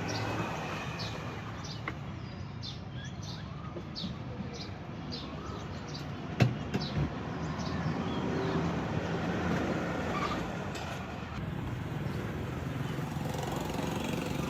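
Street ambience with steady traffic hum and a small bird chirping repeatedly, about twice a second, over the first few seconds. A single sharp knock about six and a half seconds in.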